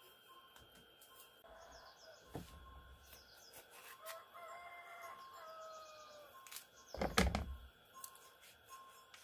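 Rooster crowing, one long call of several seconds, with a heavy thump near the end and a lighter one early on the crow.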